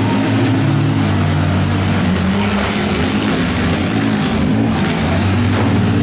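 Engines of several demolition-derby mini-vans running and revving together, a loud, steady drone.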